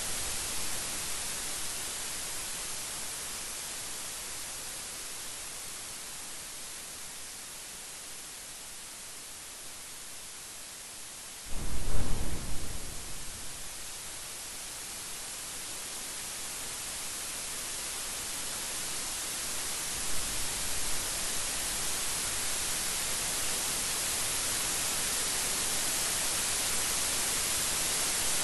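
Steady heavy rain hiss, with a sudden loud thunderclap a little before the middle that rumbles away over a couple of seconds, and a softer rumble of thunder later. The rain grows louder toward the end.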